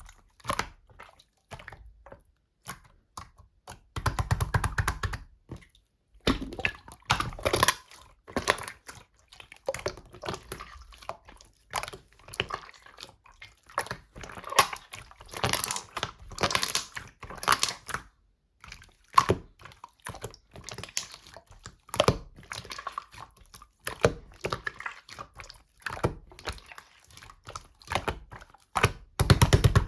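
Slime being pressed, folded and stretched by hand, making irregular runs of sticky clicks and small pops.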